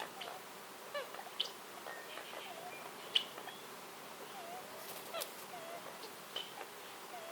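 Forest birds chirping, with short calls and wavy notes scattered irregularly, over a faint steady hiss. A few sharp clicks come near the middle.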